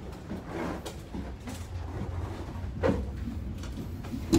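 KA Gumarang passenger train running with a steady low rumble, broken by two sharp knocks, the louder one near the end.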